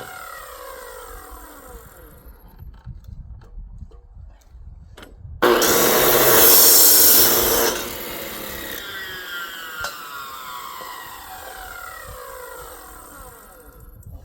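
Power cutting saw making a loud cut of a little over two seconds, about five seconds in. Afterwards the blade winds down with a falling whine that fades out near the end. Another falling whine dies away at the start, the tail of an earlier cut.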